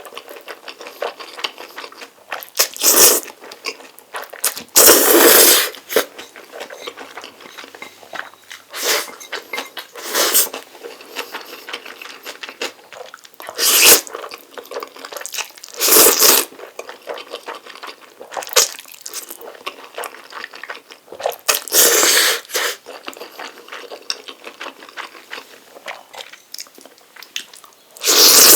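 Close-miked eating of Jjapaghetti black-bean noodles: loud noodle slurps every few seconds, with softer chewing and wet mouth sounds in between.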